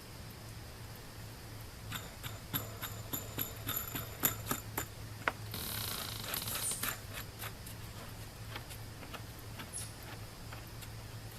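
Small metal clinks and jingles of washers and nuts being handled and threaded onto carriage bolts. A quick run of clicks comes in the first half, then a short rustle and a few scattered clicks, over a steady low hum.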